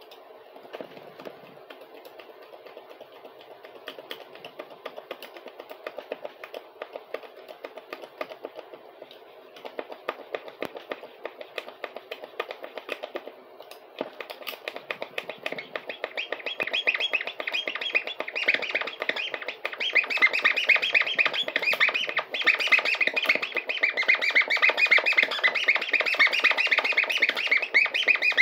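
A wooden pencil being cut, the tool scraping rapidly back and forth through it with high squeaks. The squeaking grows louder and denser from about halfway on.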